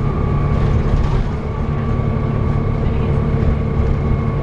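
Volvo B7TL bus's six-cylinder diesel engine running steadily, heard from inside the passenger saloon, with a steady high whine over the engine note.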